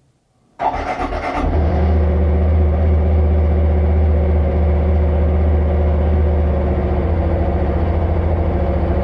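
Honda CT125 Hunter Cub's air-cooled single-cylinder four-stroke engine kick-started: it catches suddenly about half a second in, runs up briefly, then settles into a steady idle with a deep low hum.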